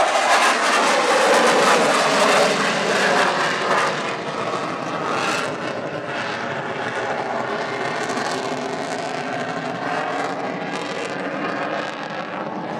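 Airplane engine noise from a military display aircraft flying past, loudest in the first four seconds, then easing to a steadier, slightly quieter sound.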